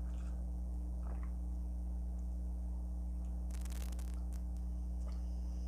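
Steady low electrical hum on the recording, with a few faint crisp crackles about three and a half seconds in from someone eating a Flamin' Hot Cheeto-crusted fried chicken wing.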